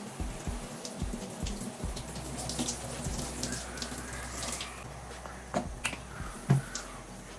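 Water running from a tap into a sink, with splashing and a few knocks, the sharpest one in the second half.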